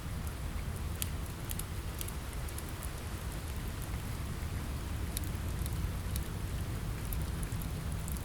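Steady rain on a window with a low rumble underneath, and the scattered sharp pops of a crackling wood fire a handful of times.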